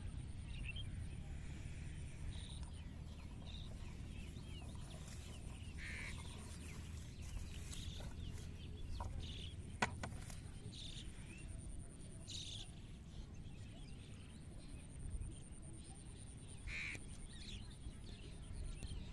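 Scattered short bird calls over a low steady rumble, with one sharp knock about ten seconds in.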